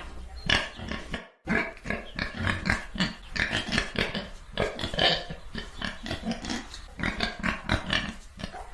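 Pigs grunting: many short, irregular grunts in quick succession, with a brief break about a second and a half in.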